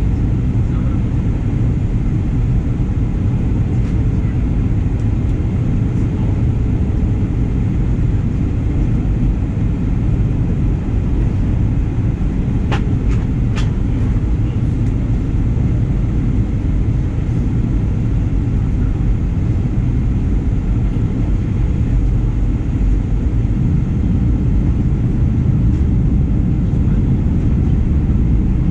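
Steady low rumble of a Boeing 737-900ER's engines and airflow heard inside the passenger cabin, with two short clicks close together about halfway through.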